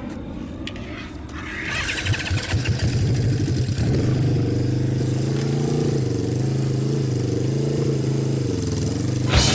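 Honda inline-four motorcycle engine running. It grows louder about two seconds in, then settles to a steady, even note with slight wavers in pitch.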